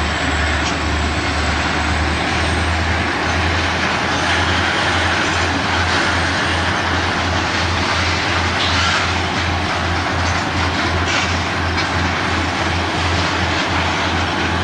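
Freight train rolling past: a steady, loud rumble of wheels on rail with a low throb repeating about three times a second.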